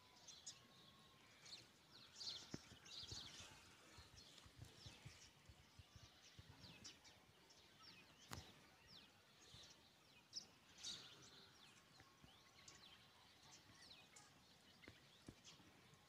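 Faint chirping of small birds, many short high calls scattered throughout, with a few soft clicks.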